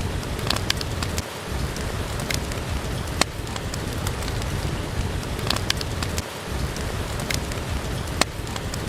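Steady rain with a wood fire crackling, heard as a few sharp, irregular pops over the rain.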